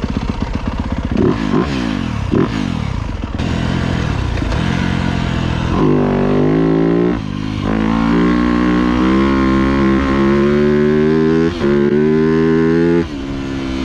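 2025 Yamaha YZ250F's 250 cc four-stroke single-cylinder engine, first blipped a few times, then pulling away with the revs climbing under load. The revs drop briefly about seven and about eleven and a half seconds in, and fall off sharply near the end as the throttle closes.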